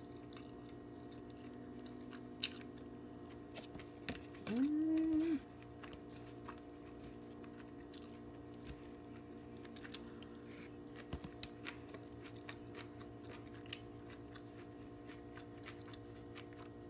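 Close-up mouth sounds of chewing a Boca chicken patty: soft chewing with small smacks and clicks scattered throughout, and one short hummed 'mmm' about four and a half seconds in.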